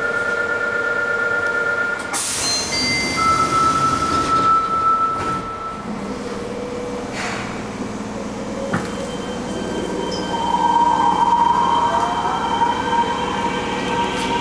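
Fukuoka City Subway N1000-series train heard from inside a car, running with steady tones. There is a sudden noise about 2 seconds in, and from about 9 seconds a rising whine as the traction motors speed the train up. This car is one that makes an abnormal noise reminiscent of the JR 811 series' jet-like sound.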